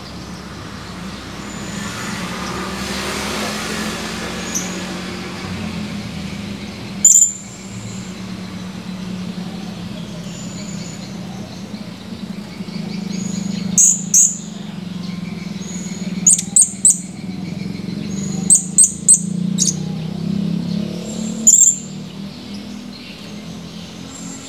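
Blue-crowned hanging parrot (serindit) giving short, sharp, high-pitched calls, singly and in quick runs of two or three, over a steady low hum.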